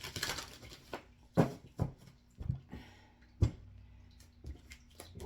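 Tarot cards being shuffled and drawn by hand: a short rustle of shuffling at the start, then a string of sharp slaps and taps as cards are pulled and laid down on a table.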